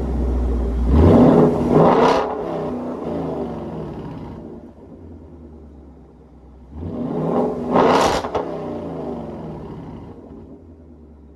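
2018 Mustang GT's 5.0 L V8 through a Borla ATAK axle-back exhaust with a resonator-delete X-pipe. Starting from a low drone, the engine accelerates hard twice, about a second in and again near seven seconds, each time rising in pitch to a loud peak and then fading away slowly.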